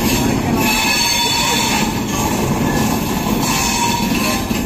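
Passenger coaches of a departing express train rolling slowly past: a steady rumble of wheels on the rails, with faint squeals coming and going.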